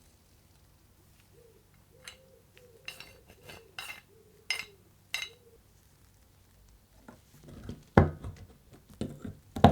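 Small metal parts clinking as they are handled and set down: about six short, sharp clinks with a slight ring. Louder, heavier knocks follow near the end.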